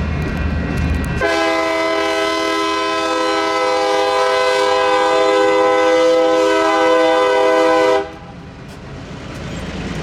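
Train horn sounding one long steady blast, a chord of several tones, starting about a second in and cutting off sharply about seven seconds later. Low rumbling train noise comes before it and builds again near the end.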